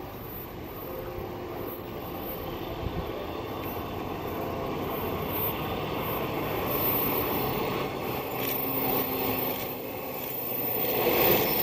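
JR West 113 series electric train approaching on the track, its running noise of wheels on rails growing steadily louder as it nears, loudest near the end.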